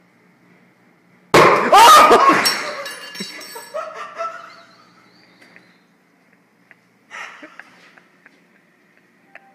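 A microwaved hard-boiled egg bursting with one sudden loud bang about a second in, followed by a clattering, ringing tail that dies away over a few seconds. Before the bang there is a faint steady hum.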